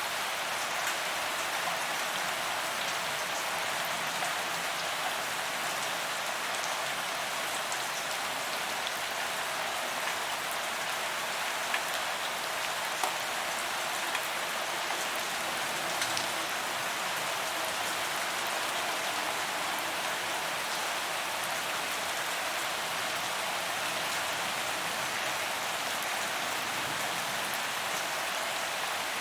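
Steady rain falling on a paved promenade, a dense even patter of drops hitting the pavement with a few slightly louder drop hits scattered through.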